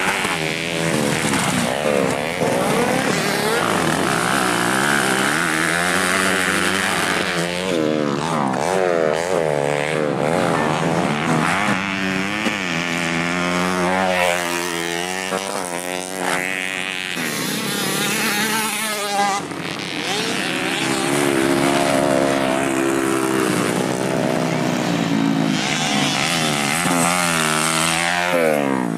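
Motocross dirt bike engines running hard on a track, their pitch climbing and dropping over and over as the riders accelerate, shift and back off.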